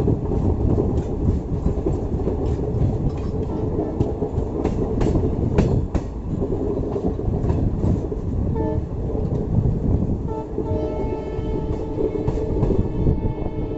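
Passenger train running on the rails: a steady rumble with clicks of the wheels over rail joints. A train horn gives short toots about nine seconds in, then sounds steadily from about ten and a half seconds.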